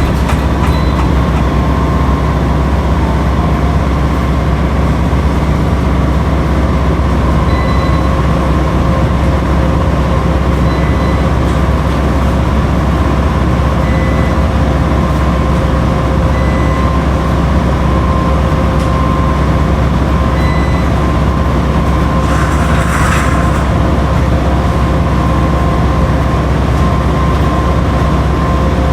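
Washing machine running with a loud, steady low hum, and a short hiss about two-thirds of the way through.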